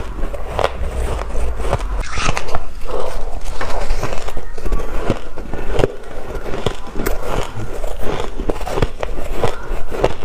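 Close-miked biting and chewing of shaved ice: a dense run of sharp, crackling crunches.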